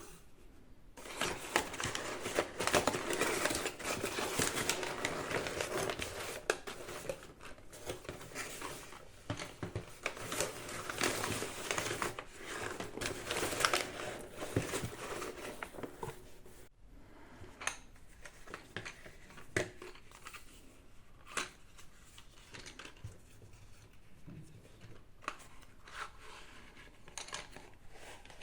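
Packaging being unwrapped by hand, the wrapping crinkling and tearing for about fifteen seconds, then lighter scattered taps and rustles.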